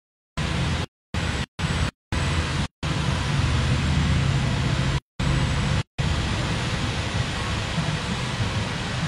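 Honda Fireblade's inline-four engine idling steadily, the sound dropping out to silence in short gaps about seven times in the first six seconds.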